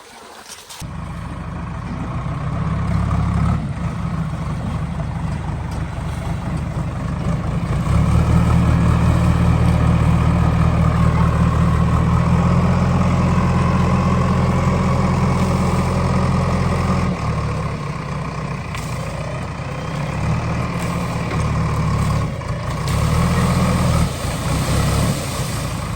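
Heavy diesel vehicle engine running loudly, its speed and load rising and falling: louder from about eight seconds in, easing back after about seventeen seconds, and picking up again near the end.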